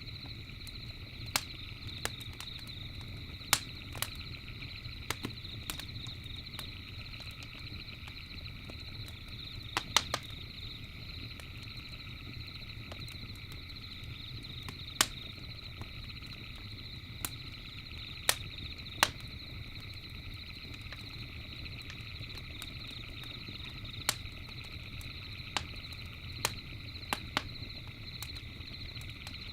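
Campfire crackling, with irregular sharp pops one to a few seconds apart, over a steady high chirring of night insects.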